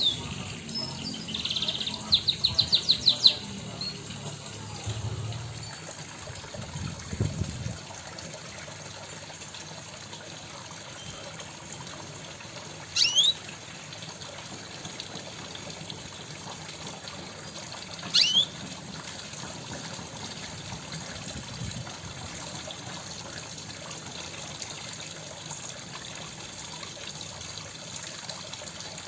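Caged pet songbirds chirping: a quick run of about eight high notes a couple of seconds in, then two short, sharp chirps about five seconds apart, over a steady hiss.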